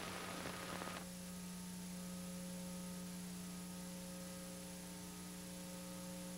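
Steady electrical mains hum with faint hiss in the audio of a VHS tape transfer: one low buzzing tone with several overtones, and the hiss eases slightly about a second in.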